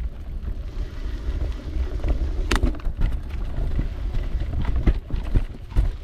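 Mountain bike rolling over a rough trail: a steady low rumble of tyres on the ground, broken by irregular knocks and rattles as the bike hits bumps, the sharpest about two and a half seconds in.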